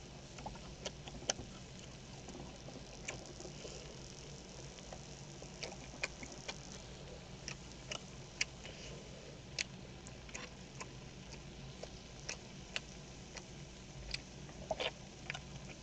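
A person eating close to the microphone: irregular wet mouth clicks and smacks while chewing, spaced from a fraction of a second to about a second apart, over a low steady hum.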